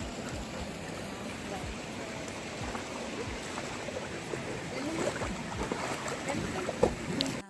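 Steady rush of flowing water, with a brief sharp knock near the end.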